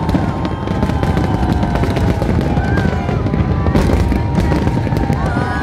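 Fireworks going off in quick succession: a rapid string of bangs and crackles over a continuous low rumble.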